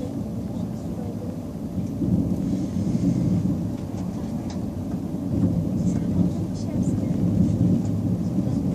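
Steady low rumble of a TCDD high-speed train running along the line, with a few faint clicks.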